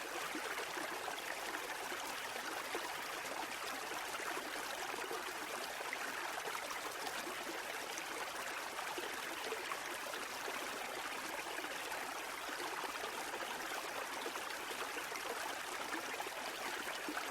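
Steady rushing of water that keeps an even level without rising and falling, with little deep rumble.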